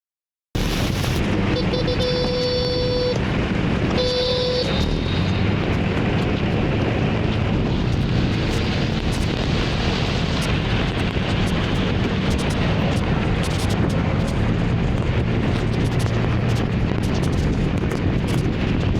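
Scooter ride through city traffic: a steady rumble of engine and traffic that starts abruptly about half a second in, with two horn honks about two and four seconds in, the first about a second long.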